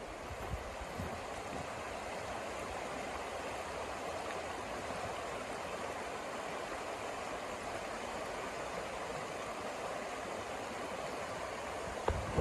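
Steady rushing wind of a snowstorm, with a few low gusts thudding on the microphone in the first second or so.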